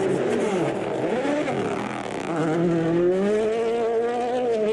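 Rally car engine under hard driving, its pitch dipping and then climbing strongly before easing off near the end.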